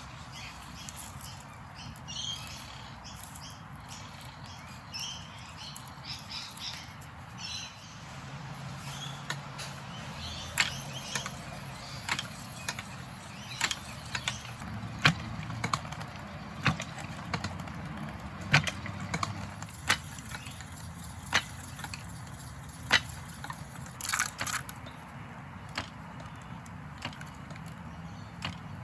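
Sharp clicks or taps repeating about every second and a half, over a steady low background hum. High chirping is heard in the first few seconds.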